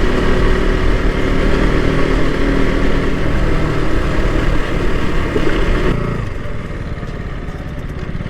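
KTM RC 125's single-cylinder engine running under way, with wind and road noise. About six seconds in, the engine note fades and the sound gets quieter.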